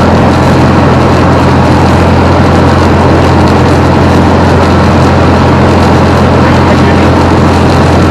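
Piper Comanche 250's six-cylinder Lycoming engine and propeller heard from inside the cabin as a loud, steady drone, holding one pitch with no change in power.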